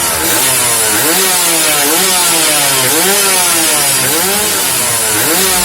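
Yamaha RX King two-stroke motorcycle engine being revved repeatedly through a loud aftermarket exhaust, about five blips that each rise and fall in pitch, with a rasping exhaust hiss throughout.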